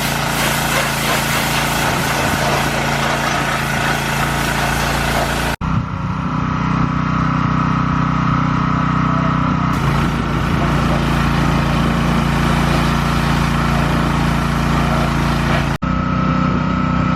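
Pressure washer's small engine running steadily, with a hiss of spray over the hum. The sound breaks off abruptly twice, about five seconds in and near the end.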